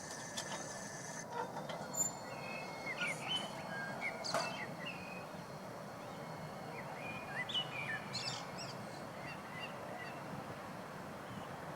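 Birds chirping in short scattered calls over a steady background hum of outdoor noise.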